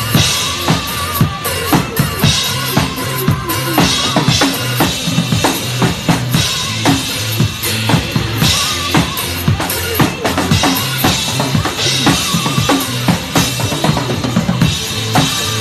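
Drum kit played in a busy, driving pattern of bass drum, snare and cymbal hits, over a backing music track.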